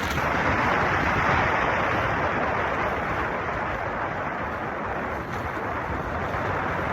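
Steady rush of wind and road noise from a moving motorcycle, easing slightly after the first couple of seconds.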